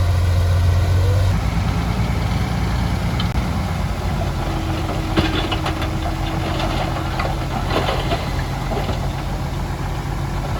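Heavy diesel earthmoving machinery running steadily, its strong low engine note easing about a second in. Metallic clanking and rattling comes in about halfway through.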